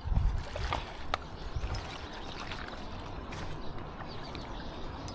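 River water running and lapping, with a few low bumps near the start and a couple of sharp clicks about a second in.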